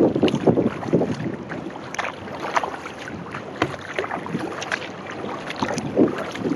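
Kayak paddle strokes dipping and splashing, with water slapping at the hull in irregular small splashes, loudest in the first second; wind buffets the microphone.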